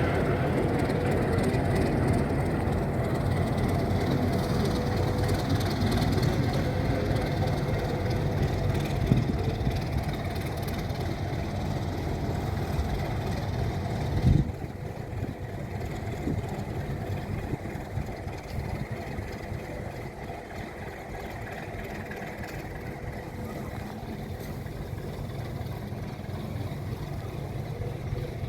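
Alco RS8 diesel locomotive running with a steady low rumble. About halfway through there is a single sharp knock, after which the engine sound is noticeably quieter.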